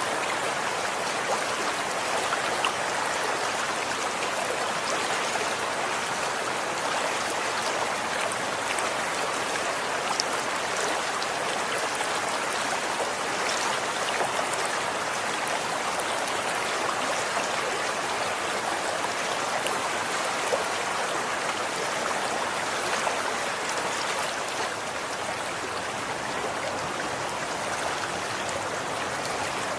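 Running water of a small stream flowing steadily, an even rushing with small scattered splashes and drips.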